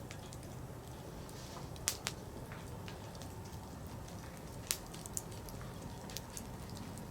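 Wood campfire crackling: scattered sharp pops and ticks of burning firewood, a few louder snaps about two seconds in and again near five seconds, over a steady low rushing background.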